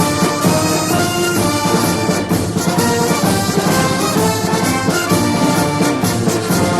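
Orchestral music led by brass, playing held chords.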